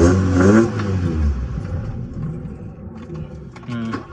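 A 1979 VW Rabbit's four-cylinder engine running roughly and revving briefly as the gas is pressed, then dying out about a second in. It keeps stalling with the cold start valve unplugged.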